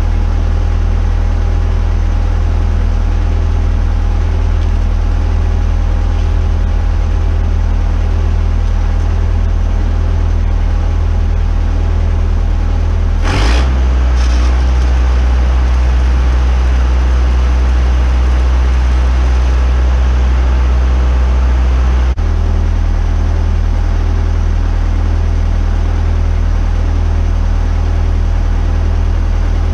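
Steady, loud low machine hum, most likely the welding machine. About 13 seconds in a sudden crackle is followed by the hum getting louder and deeper for about eight seconds. It then drops back abruptly to its earlier level.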